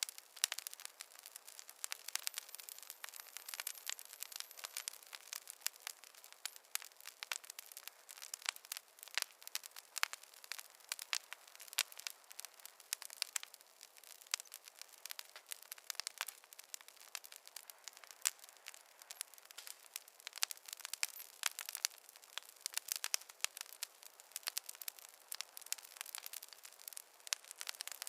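Wood campfire crackling, with frequent irregular sharp pops and snaps over a soft hiss.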